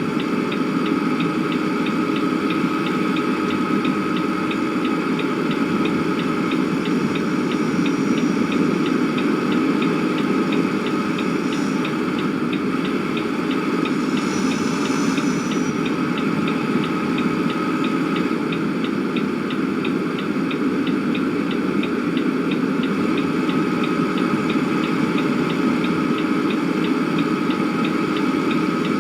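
An engine running steadily, a low even drone, with a fast regular ticking over it.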